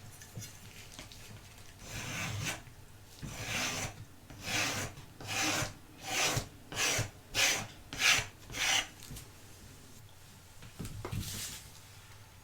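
A series of rasping, scraping strokes, about nine of them, coming faster toward the middle, then one more stroke near the end.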